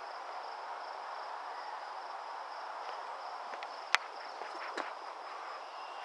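Steady, evenly pulsed high insect trill, cricket-like, over a soft outdoor background hiss. One sharp click about two-thirds of the way in, followed by a few faint ticks.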